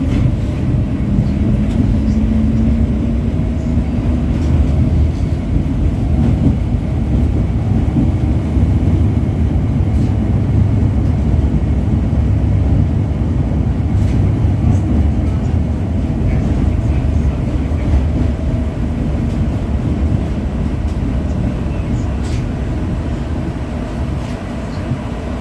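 LVS-86K tram running between stops, heard from inside the passenger cabin: a steady low rumble of wheels on rails under a faint motor hum that rises a little in pitch in the first few seconds, with a few faint clicks.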